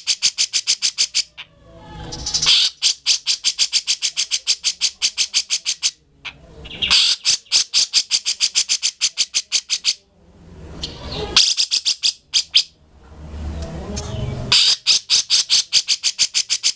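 Grey-cheeked bulbul (cucak jenggot) singing continuously. Each phrase opens with a rough, rising call and breaks into a fast run of sharp notes, about nine a second, repeated phrase after phrase with brief pauses between.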